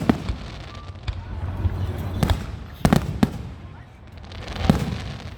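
Fireworks shells bursting in an aerial display: several sharp bangs at uneven intervals, with a low rumble between them.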